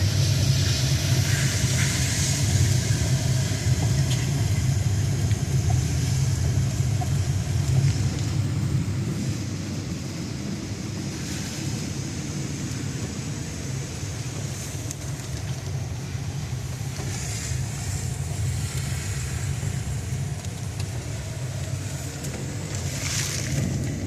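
Steady rushing of a flooded, fast-running river, with wind rumbling on the microphone. The low rumble eases about nine seconds in, and the rush carries on.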